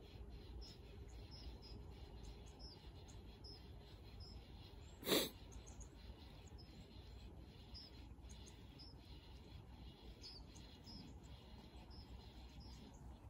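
A small bird repeating a short, high chirp about once a second over a faint outdoor background, with one brief loud noise about five seconds in.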